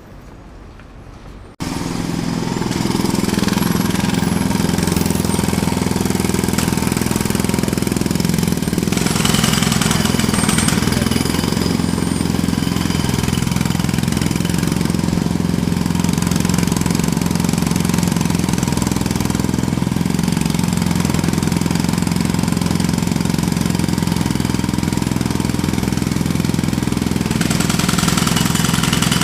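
A jackhammer starts abruptly about a second and a half in after a quieter stretch, then keeps hammering steadily and loudly without a break.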